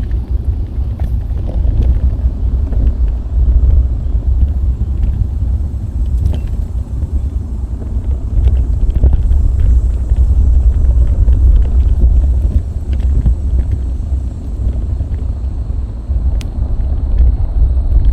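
Wind buffeting the microphone of a bike-mounted action camera while riding, a steady heavy low rumble with scattered faint ticks from the bicycle.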